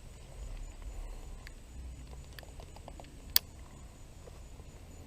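Faint rustling with scattered light clicks, and one sharp click about two-thirds of the way through.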